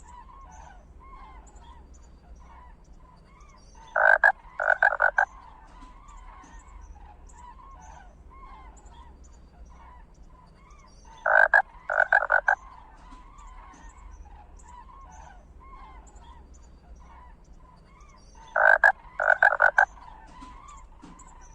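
A steady background of many small animal calls, with three loud clusters of rapid, rattling calls about seven seconds apart.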